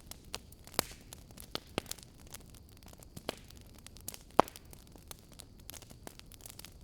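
Wood fire in a fireplace crackling: irregular sharp pops and snaps over a low hiss, with one loud pop about four and a half seconds in.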